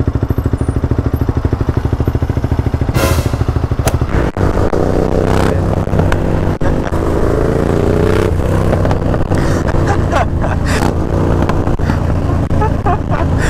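KTM Duke 125's single-cylinder engine through its Scorpion aftermarket exhaust. It first beats in fast, even pulses at low revs, then, after a cut a few seconds in, runs at higher revs, with the pitch rising around the middle.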